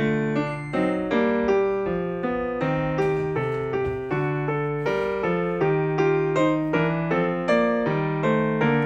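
Background music: a gentle piano melody in even, regularly struck notes.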